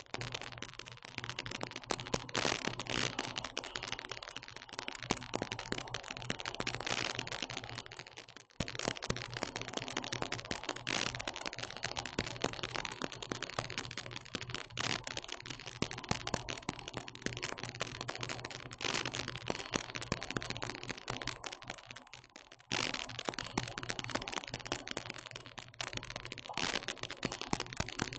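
Dense, irregular crackling and clicking over a steady low hum, dropping away briefly twice.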